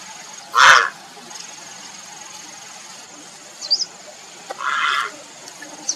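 Grey heron giving two harsh, croaking calls: a short, loud one about half a second in and a longer one near the end. A faint, steady high whine runs underneath, with a couple of brief high chirps.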